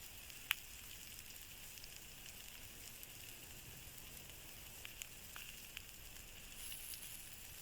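Star-style log campfire burning: a faint steady sizzling hiss with a few sharp, scattered crackles.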